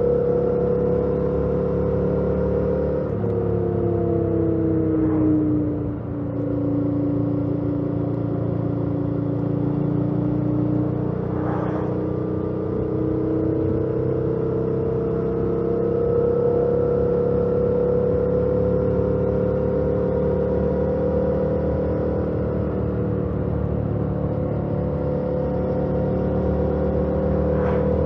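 2018 Yamaha MT-07's 689 cc parallel-twin engine, stock exhaust, running under way. Its pitch drops about three seconds in, then climbs slowly as the bike gathers speed.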